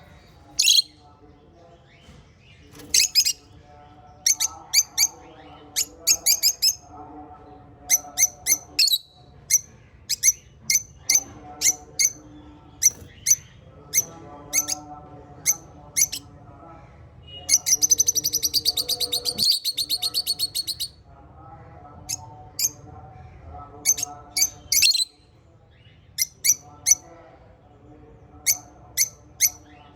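Lovebirds and budgies chirping: short, sharp high chirps in quick clusters all through, with a rapid buzzing trill for about three seconds past the middle.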